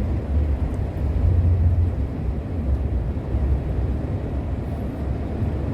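Steady low drone of a long-haul truck's engine and road noise heard from inside the cab while driving, swelling slightly about a second in.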